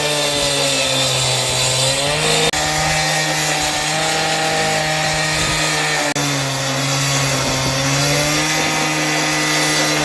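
Concrete saw running at high speed while cutting into concrete, its pitch sagging slightly under load about two seconds in and again later, then recovering.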